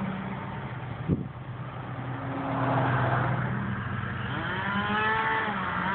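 Car engine and road noise heard from inside a moving car, with a short knock about a second in and a rising tone near the end.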